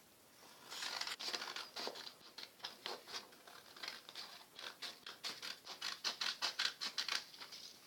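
A sheet of A4 paper being cut to trim off the excess strip and leave a square. It sounds as a quick, irregular series of crisp snips and paper rustles.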